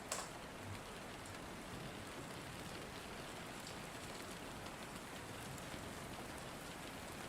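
Steady rain falling, with scattered drops ticking on a surface and one sharper click just after the start.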